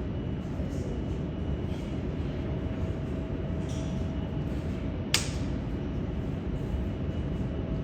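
Jet aircraft engines running with a steady low rumble, with a single sharp click about five seconds in.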